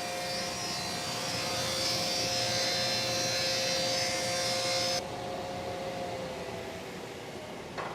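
A stationary woodworking machine with a helical cutterhead runs with a steady hum while it planes a board, with a loud high cutting noise over the hum that stops sharply about five seconds in. The hum then fades, and there is a short knock near the end.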